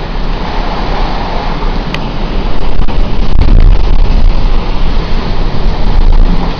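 Squally wind buffeting the microphone over a heavy downpour: a loud, steady roar with deep rumble that grows louder about two and a half seconds in.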